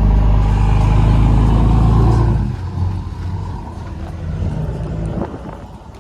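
A motor vehicle's engine running loud and steady for about two and a half seconds, then dropping off suddenly to a quieter running sound that fades away.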